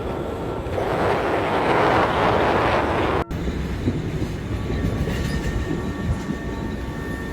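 Train running on the rails: a steady rumble and rattle, with a brief break a little over three seconds in.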